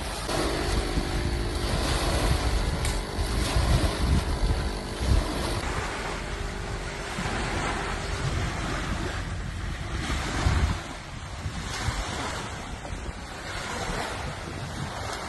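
Sea waves washing on the shore, with wind buffeting the microphone in uneven low rumbles. A faint steady hum sits under it for the first half.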